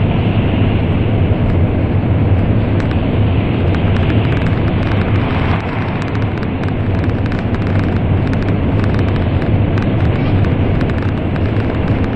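Interior running noise of an N700 series Shinkansen at speed in a tunnel: a loud, steady roar with a deep rumble and faint scattered ticks.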